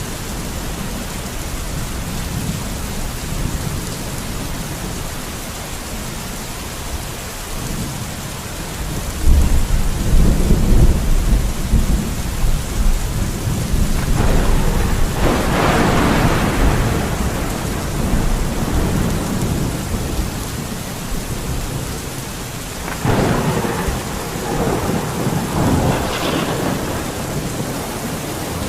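Steady rain with rolling thunder. A deep rumble swells about nine seconds in and lasts several seconds, and two louder rumbles follow, one around the middle and one near the end.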